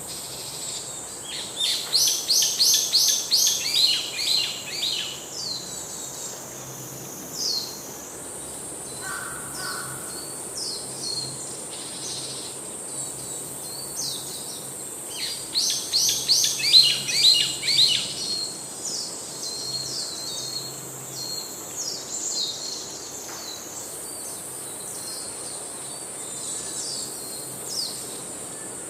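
Birds singing outdoors: two loud runs of rapid, high, repeated song notes, a couple of seconds in and again about halfway through, with scattered single chirps between, over a steady high-pitched whine.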